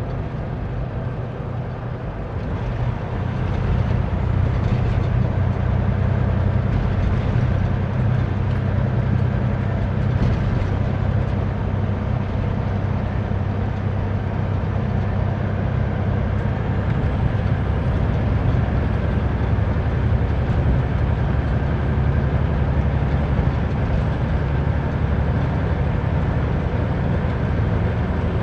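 Semi truck's engine and road noise heard from inside the cab while driving: a steady low drone that grows louder about three seconds in and then holds.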